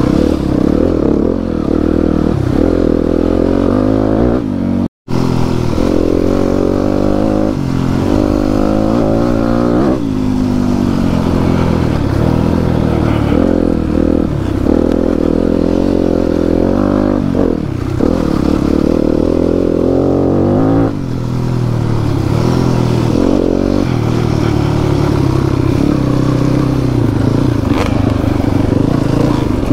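Enduro dirt bike engine heard on board, revving up and falling back again and again as the throttle opens and closes on the trail. The sound cuts out for an instant about five seconds in.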